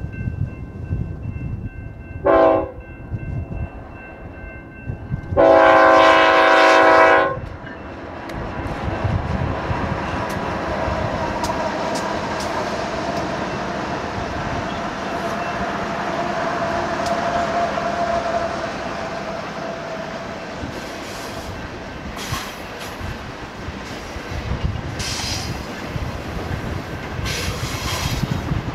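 BNSF freight diesel locomotive's horn sounding a short blast and then a longer, louder one for the grade crossing. Then the double-stacked intermodal train rolls through with a steady rumble and wheels clacking over the rails.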